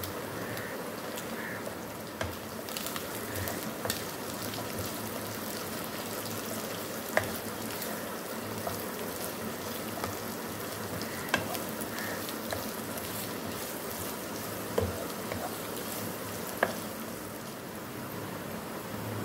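Chopped carrots, green bell pepper and shredded chicken sizzling in oil in a nonstick wok while being stirred with a spatula, with about four sharp clicks of the spatula striking the pan.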